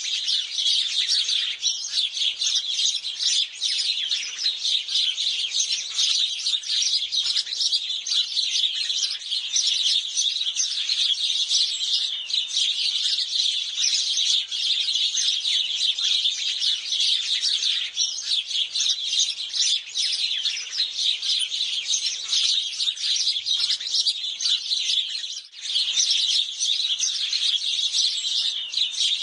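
Many house sparrows chirping together, a dense, unbroken chatter of short high chirps that overlap one another, briefly thinning about 25 seconds in.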